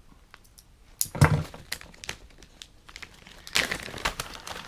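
Plastic packaging crinkling and tearing as it is opened, with scattered light clicks; the loudest rustles come about a second in and again about three and a half seconds in.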